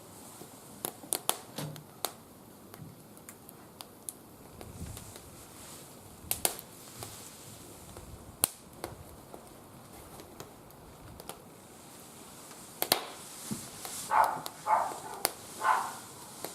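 Wood fire in a barbecue grill crackling, with sharp pops and clicks scattered throughout. Near the end a dog barks three times in quick succession.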